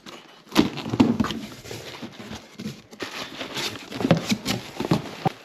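Irregular knocks, clicks and rustling of things being handled, with a cluster of sharper knocks near the end.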